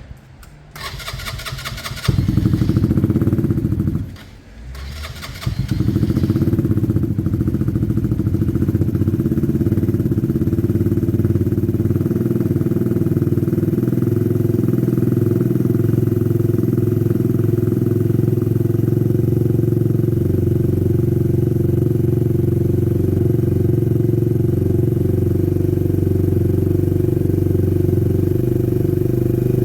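Herald motorcycle's single-cylinder engine being started cold on choke. It is cranked, catches about two seconds in and dies away after a couple of seconds. It is cranked again, catches, and settles into a steady idle.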